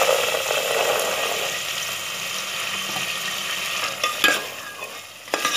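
Green peas tipped into hot oil and fried masala in a metal pot, setting off a loud sizzle that slowly dies down. Two sharp knocks come near the end.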